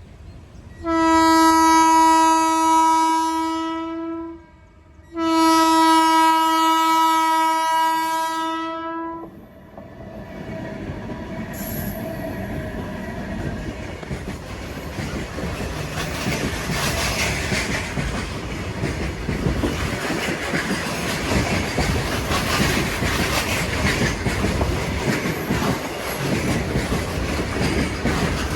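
Indian Railways locomotive horn sounding two long blasts of about four seconds each, then the train running past with its wheels clacking over the rail joints, growing louder.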